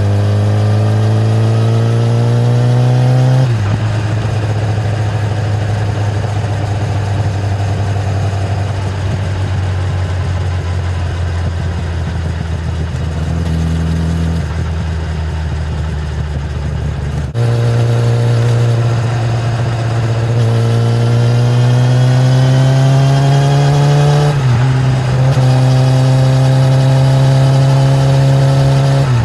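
Kawasaki ZX-10R's inline-four engine through its stock exhaust while riding. The revs climb for the first few seconds, drop and hold steady for a long stretch, then climb again after a sudden change, with a brief dip and recovery near the end, typical of an upshift.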